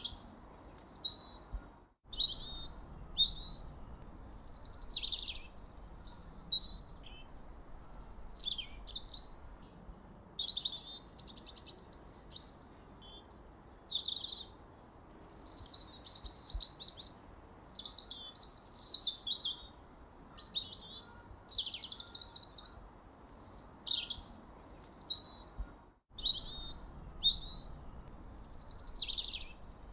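Songbirds singing continuously: a busy stream of quick high chirps, falling sweeps and short trills, over a faint background hiss, broken by two momentary dropouts.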